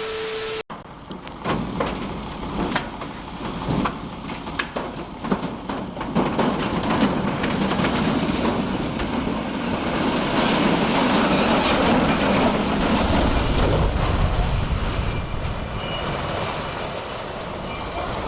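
Vehicle noise: a steady rushing with scattered knocks and clatters, somewhat louder in the second half.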